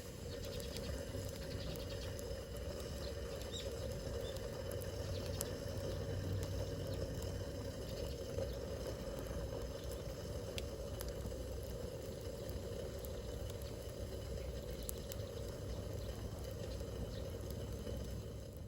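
Wood campfire burning, crackling, with scattered sharp pops over a steady rushing noise.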